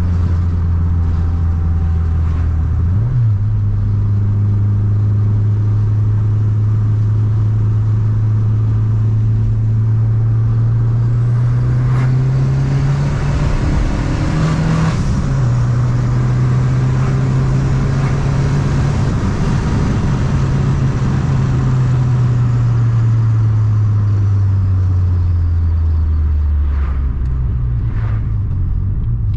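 Turbocharged 2.1-litre VW AP four-cylinder engine of a 1993 Santana GLSi, heard from inside the cabin while driving, over steady road noise. Its pitch shifts about three seconds in, climbs slowly as the car pulls, dips briefly about halfway, then falls away over the last several seconds.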